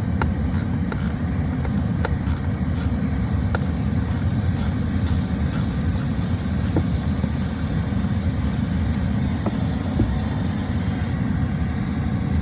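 Tesla Model 3's air-conditioning blower running, a steady low rushing of air, with a few faint light clicks over it.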